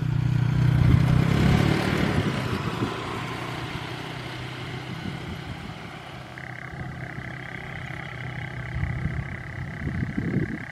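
An engine running, loudest at first and then fading and settling lower. A steady high-pitched tone comes in suddenly about six seconds in.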